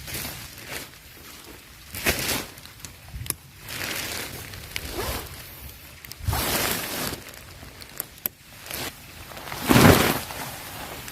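Irregular rustling and handling noises: a series of short scrapes and rustles at uneven intervals, the loudest about ten seconds in.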